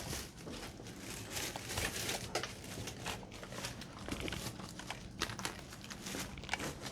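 Irregular crunching and scuffing of footsteps on loose rock.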